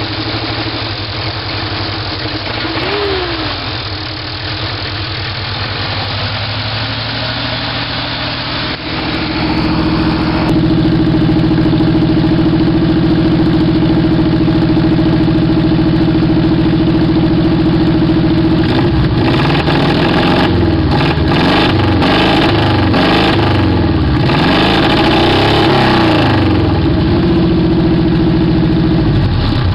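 1991 Subaru Loyale's flat-four engine running shortly after a cold start: uneven at first, it picks up to a steady higher speed about ten seconds in, then is revved up and down several times before settling.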